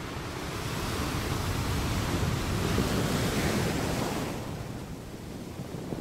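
Water rushing past a moving boat's hull, with wind buffeting the microphone. The rush swells over the first few seconds, with a rising hiss, and falls back about four seconds in.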